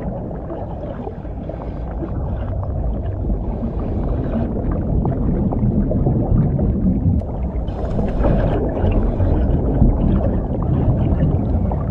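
Underwater sound on a scuba diver's camera: a continuous low rumble of water, with several short bursts of hissing bubbles from the diver's exhaled breath, the brightest about eight seconds in.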